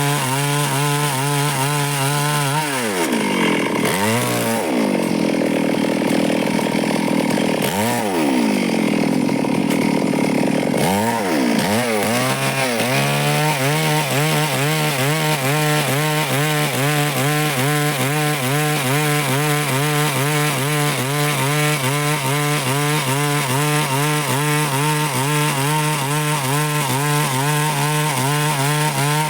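Stihl chainsaw running at high revs through wood. Its engine pitch drops and swings back up several times in the first half, then holds steady through the rest.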